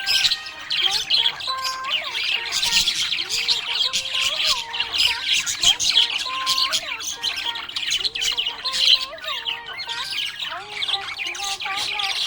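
Budgerigar chirping and chattering without a break, a dense stream of quick high chirps and squawks. A lower line of held, stepping notes runs beneath.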